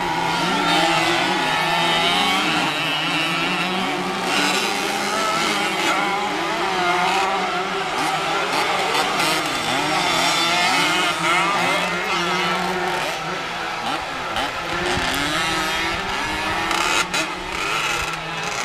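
Several 50cc motocross bikes revving and racing together, their engine pitches rising and falling over one another.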